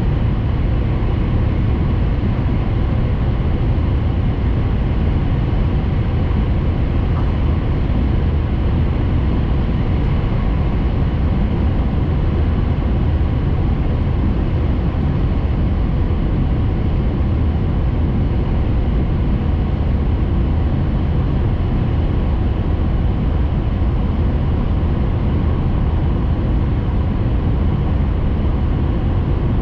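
Steady interior running noise of a Hayabusa Shinkansen train at speed, heard inside the passenger car: an even rumble and rush with no changes.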